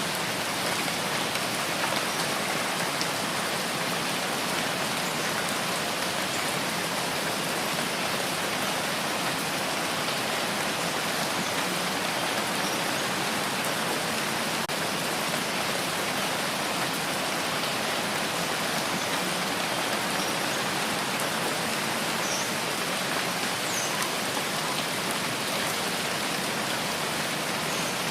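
Steady rain falling, an even hiss of many drops with fine ticks of individual drops hitting a surface.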